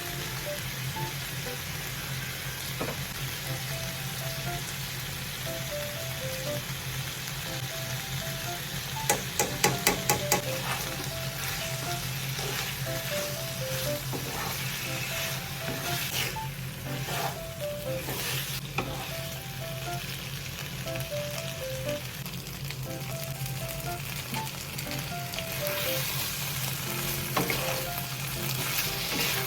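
Food frying and sizzling in a pan with a steady hiss, and a utensil stirring it, with a quick run of sharp clicks about a third of the way in. A soft melody of single plucked notes plays underneath.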